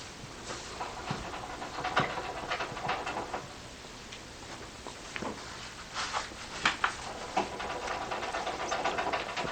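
Handheld digital voice recorder picking up steady hiss and scattered clicks and knocks, with a faint wavering tone in two stretches, the first ending a little after three seconds in and the second starting near the end.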